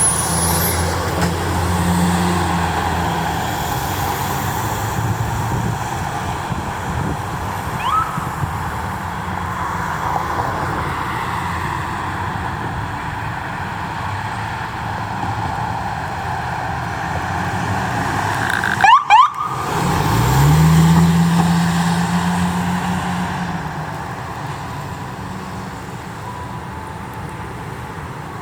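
Emergency vehicle on the road: engine and road noise, with a short rising siren sweep about two-thirds of the way in, then a heavy engine revving up and the sound swelling and fading as it passes.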